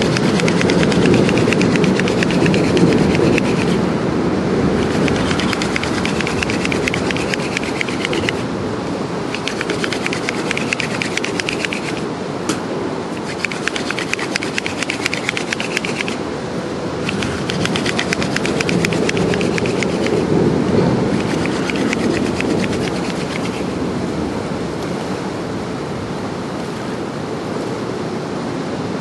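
Hand drill friction fire: a mullein stalk spindle spun between the palms in a western red cedar hearth board, its tip rubbing in the burned hole in runs of about three to four seconds with short pauses, working up an ember. Steady rain noise under a bridge runs beneath it.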